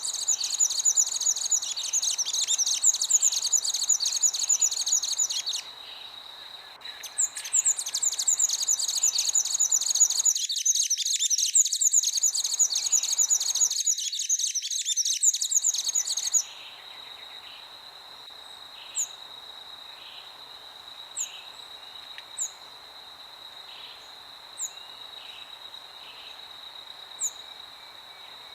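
Birds chirping in a dense, busy chorus that breaks off briefly, resumes, then stops about halfway through, leaving only occasional single high chirps. A steady high-pitched whine and a soft hiss of wind run underneath.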